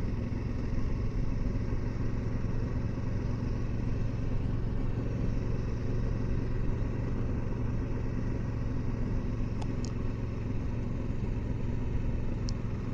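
Kawasaki Versys 650's parallel-twin engine running at a steady pace while riding, a constant drone with wind and road noise and no change in revs.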